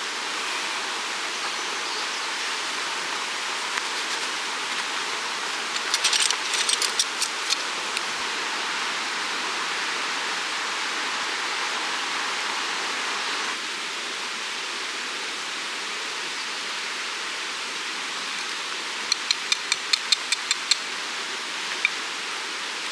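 Steady rushing noise with no pitch to it, broken twice by a short run of quick, sharp clicks, once about a quarter of the way in and again near the end.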